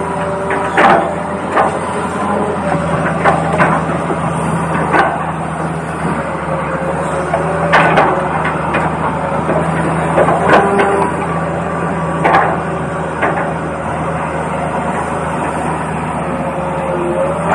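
Small electric motors of a toy RC excavator whining in steady tones that start and stop, with irregular sharp plastic clicks and knocks.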